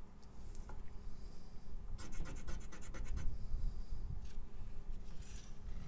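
A scratch-off lottery ticket being scratched: rapid scraping strokes across the coating, in a quick run about two seconds in and a shorter scrape near the end.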